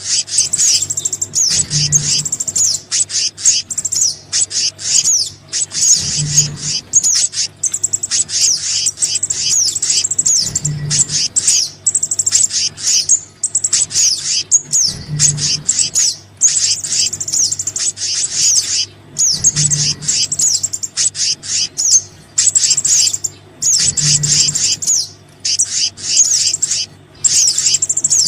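Bird-lure recording of small-bird calls, a mix of sogon and kehicap calls, with dense runs of rapid high chirps and twitters broken by brief pauses. A short low note recurs about every four and a half seconds.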